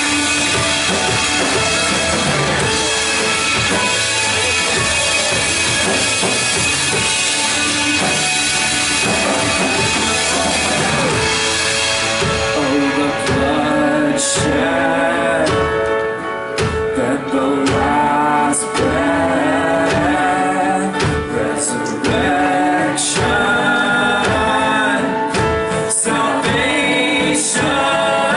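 Live church worship band with a drum kit playing loudly. Cymbals wash over the first half, and from about halfway singers come in on long held notes over sharp drum hits.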